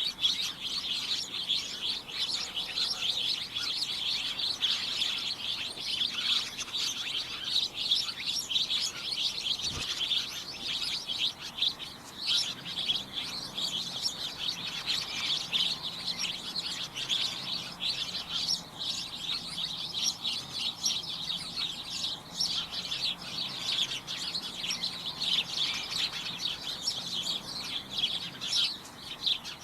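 Many small birds chirping and tweeting at once, their short calls overlapping in a dense, unbroken chatter.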